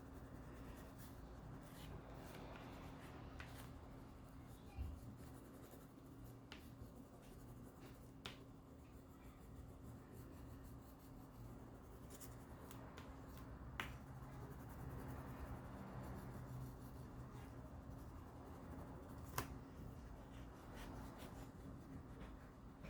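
Faint scratching of a coloured pencil shading on paper, with a handful of light ticks scattered through it over a low steady hum.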